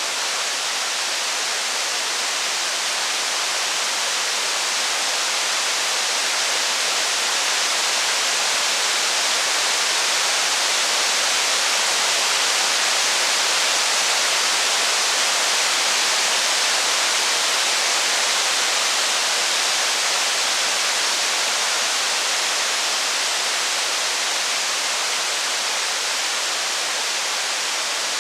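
Steady rain, an even hiss with no separate drops or crackles standing out, swelling slightly toward the middle and easing again.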